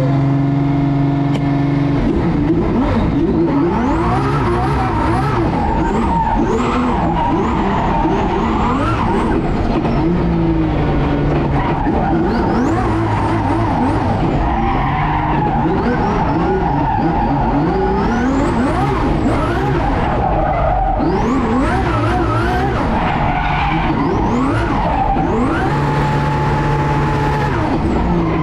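Twin-turbo Ferrari F12's V12 driven hard, the engine revving up and down again and again with tyres squealing and skidding through the corners.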